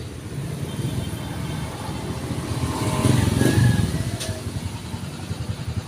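A motor vehicle engine running, growing louder to a peak about three and a half seconds in and then fading again, as a vehicle passing by does.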